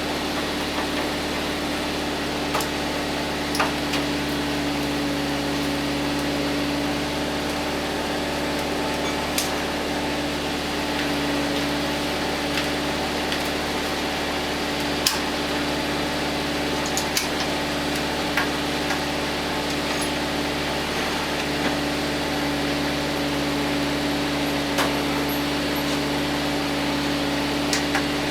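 A steady mechanical hum with a constant low tone, with scattered light clicks and knocks of metal on metal.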